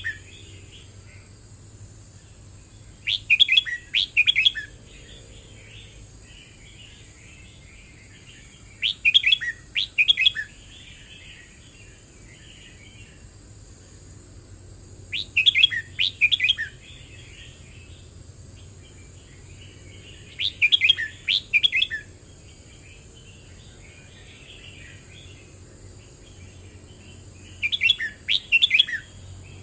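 Red-whiskered bulbul singing: five short, loud bubbling phrases about five to six seconds apart, with softer chattering between them.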